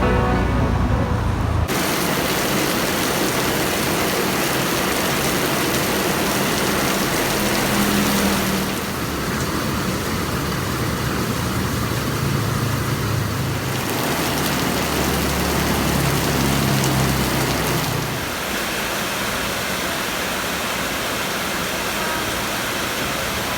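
Heavy rain hissing steadily, with a motor vehicle's engine droning underneath at a pitch that shifts now and then.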